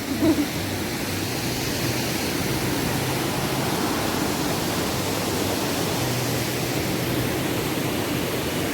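Steady rushing of river water flowing, an even noise without breaks.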